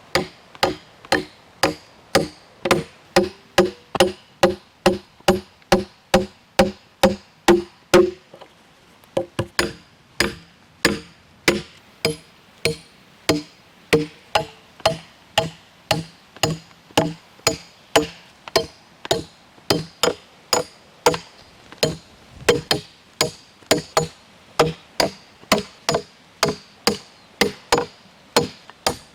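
A hand tool striking wood in a steady rhythm, about two blows a second, each with a short hollow wooden ring. The blows break off briefly about eight seconds in, then resume.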